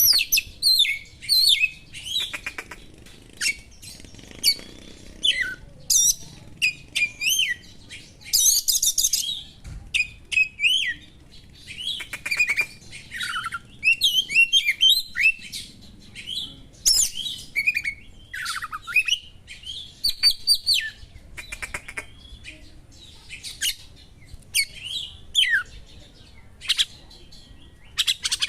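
Oriental magpie-robin (kacer) singing a fast, varied song of short chirps, whistles and rapid trills, with sharp small-bird calls worked in as mimicked material.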